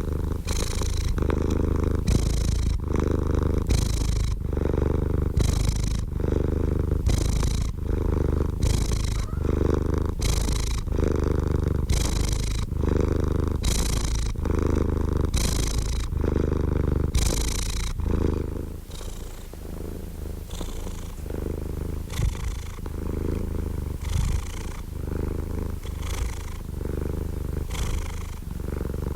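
Domestic cat purring steadily, the purr swelling and easing in an even rhythm with its breathing, about once every second and a half. It grows a little softer about two-thirds of the way through.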